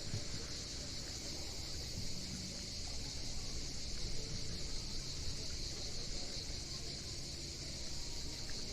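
Cicadas buzzing steadily in a constant high-pitched chorus, over a low rumble of wind and sea.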